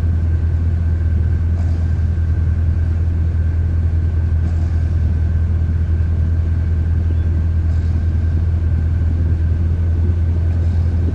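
Chevrolet 350 (5.7 L) V8 idling steadily in gear while standing still, a constant low rumble with a thin steady whine above it.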